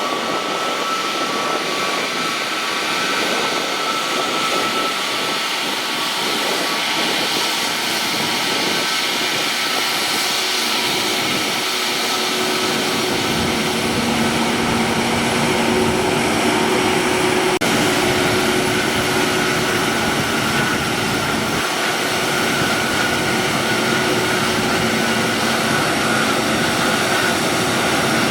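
Jet aircraft engines running, a steady noise with a high whine over it. About halfway through, a lower hum joins the whine and the pitch shifts slightly.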